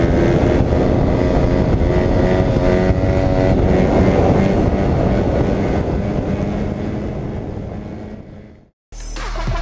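Dirt bike engine running with its pitch wavering slightly, fading out near the end; music with heavy bass starts just before the end.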